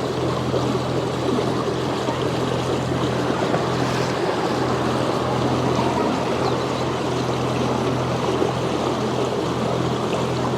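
A sailboat's inboard engine running steadily under way, a constant low hum, with water rushing along the hull.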